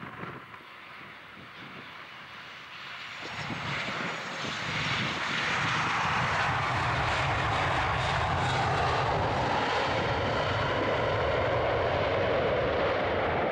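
KLM Boeing 737-800 jet airliner on landing approach, its CFM56 turbofan engines growing louder over a few seconds, with a faint high whine falling in pitch, then holding a loud steady rumble.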